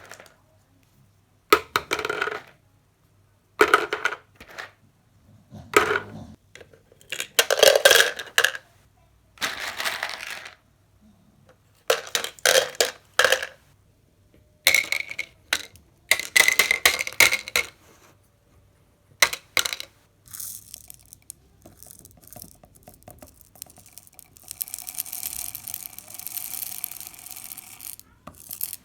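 Small beads, pasta and little plastic wheels being tipped and dropped into containers, clattering and rattling in a dozen or so separate bursts, with a longer steady rattle near the end.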